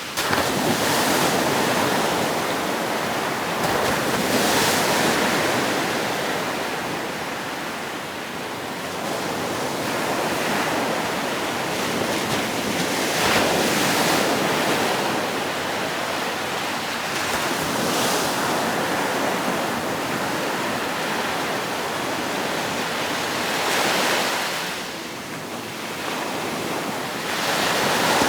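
Waves breaking and washing up on a sandy beach, a steady rush of surf that swells and eases every few seconds.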